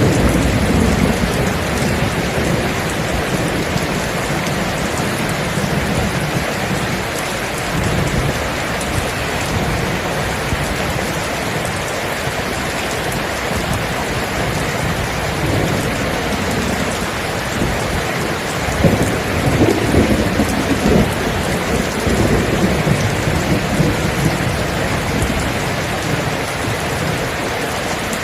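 Steady heavy rain with thunder rumbling low, once right at the start and again, louder, about two-thirds of the way through.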